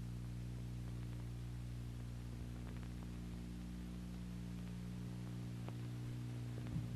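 Steady low hum with a faint even hiss, unchanging throughout: the background hum of the recording.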